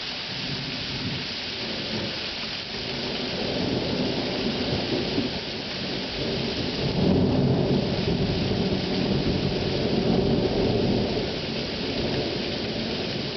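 Thunderstorm: steady rain hiss with a long roll of thunder that swells a few seconds in, is loudest in the middle and eases off toward the end.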